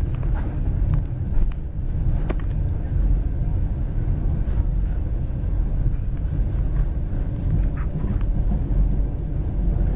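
Steady low rumble of a moving long-distance passenger train, heard from inside the carriage, with a few brief clicks at irregular moments.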